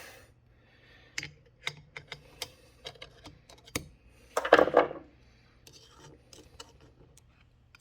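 Small metal valvetrain parts from a motorcycle-type cylinder head clicking and tapping as they are handled, with a louder clatter about four and a half seconds in.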